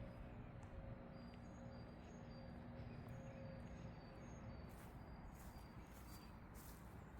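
Faint outdoor ambience: short, high chirps repeating at an even pace over a low, steady hum.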